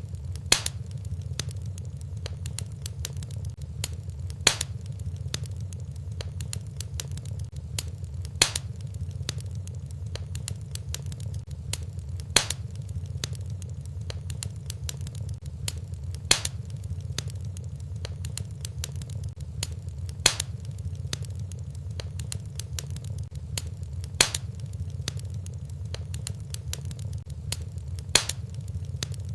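Wood fire in a fireplace crackling over a steady low rumble, with many small ticks and a louder sharp pop about every four seconds, evenly spaced like a short repeating loop.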